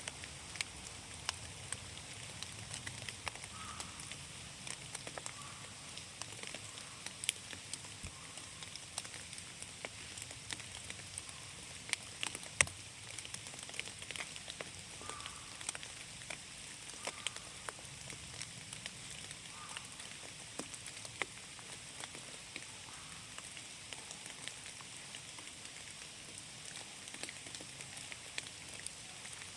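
Steady rain falling in a forest, with a soft hiss and many irregular drops ticking sharply close by.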